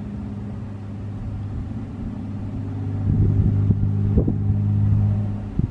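Steady low motor hum that grows louder about three seconds in, with a few knocks, and cuts off just before the end.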